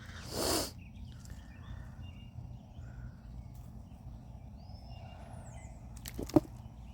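Potato digging in garden soil: a short rush of scraped dirt just after the start and one sharp knock about six seconds in, with faint bird chirps between.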